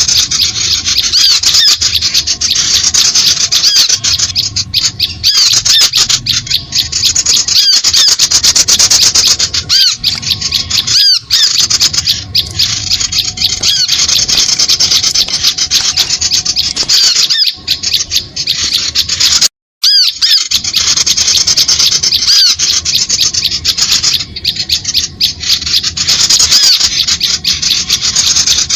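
Bird-lure recording of small birds giving dense, harsh, rapid chattering calls without pause, with a brief cut about twenty seconds in.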